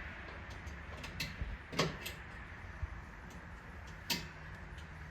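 A few separate clicks and knocks as mower deck parts are handled and fitted back together, over a faint low hum.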